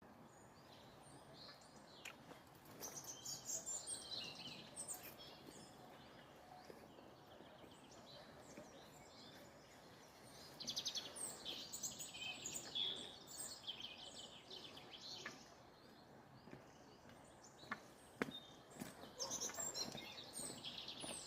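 Songbirds chirping and singing in several bursts over a faint steady background hiss, with a couple of sharp knocks about eighteen seconds in.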